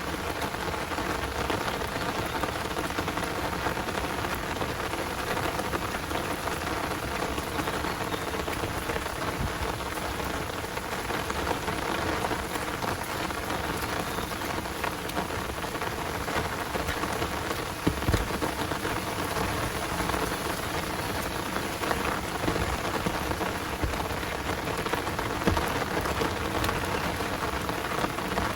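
Heavy downpour rain falling steadily, a dense hiss made up of many separate drop impacts. A single louder low thump stands out about eighteen seconds in.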